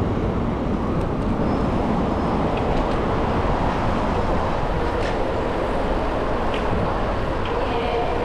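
Steady road-traffic noise heard from a moving bicycle, with a few faint light ticks in the second half.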